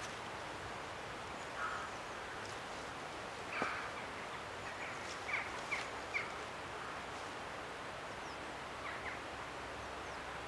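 Woodland ambience: short high bird calls over a steady hiss. There is a sharp call a little over three and a half seconds in, then three quick chirps between about five and six seconds, with fainter calls before and after.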